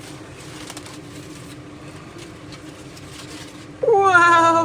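Low steady outdoor background, then near the end a loud drawn-out "wow" from a person, its pitch dropping and then held.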